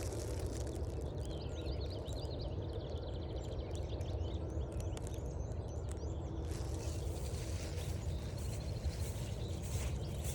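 Small songbirds chirping, with a couple of quick high trills, over a steady low background rush.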